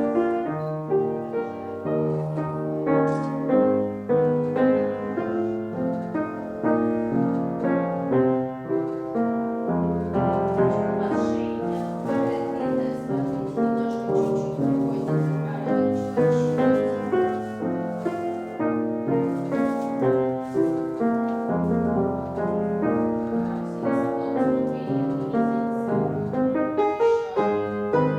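Piano playing a steady, even-paced accompaniment for ballet class exercises.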